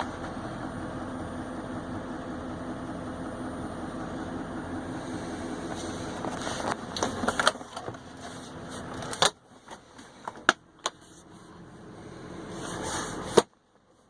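Duramax 6.6-litre V8 turbo-diesel of a 2012 Chevy Silverado 3500HD idling steadily. About nine seconds in the engine sound drops away sharply, followed by a few sharp clicks and a final loud click near the end.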